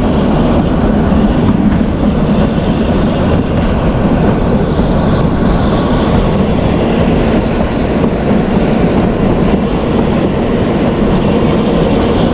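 Kalka–Shimla narrow-gauge toy train running, heard from on board: a steady, loud noise of the wheels on the track.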